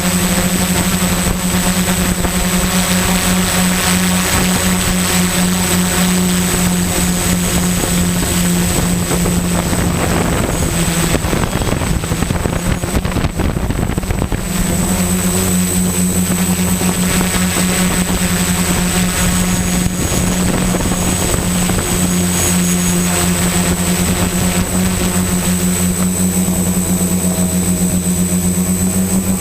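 XAircraft X650 Pro V4 quadcopter's electric motors and propellers running steadily in flight, a steady drone with a thin high whine above it. About eleven seconds in the drone breaks up into a rushing noise for a few seconds, then settles back.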